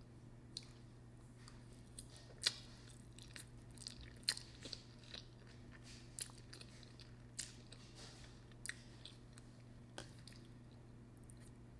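Close-up chewing of spicy ramen noodles: wet, irregular mouth clicks and smacks, a few of them sharp and loud, over a faint steady low hum.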